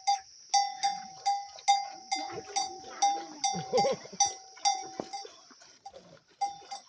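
A small metal livestock bell clanking in a steady walking rhythm, about two to three strikes a second. It stops briefly near 5 seconds, then rings again.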